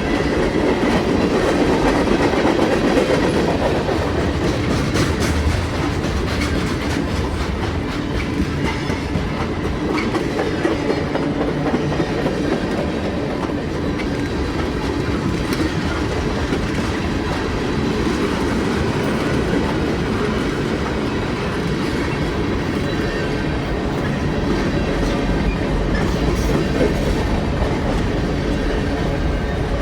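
Freight train cars rolling past at speed: a steady rumble of steel wheels on rail, with scattered clicks.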